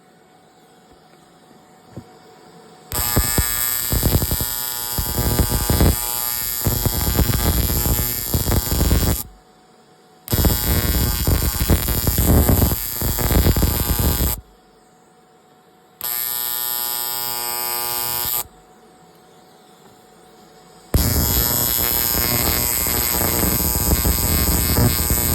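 Electric arc welder laying welds on snowmobile seat brackets: four bursts of harsh buzzing arc noise. The bursts last about six, four, two and three-plus seconds, the third steadier and quieter, the last still going at the end.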